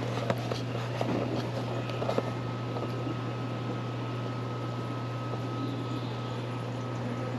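Steady low machine hum, with a few light clicks and taps in the first couple of seconds.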